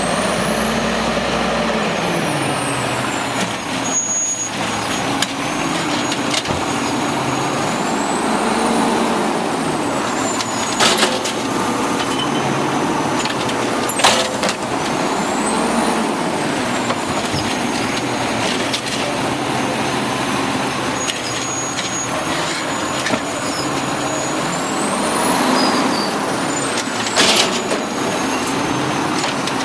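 Automated side-load garbage truck working: its engine and hydraulic whine rise and fall in pitch in repeated cycles about every eight seconds as it runs its pickup arm, with a few sharp bangs along the way.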